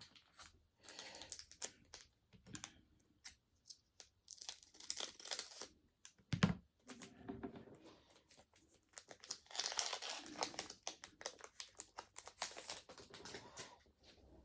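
A foil Pokémon booster pack wrapper crinkling and being torn open, with the quick clicks of the pack and cards being handled. A single dull knock comes about halfway through.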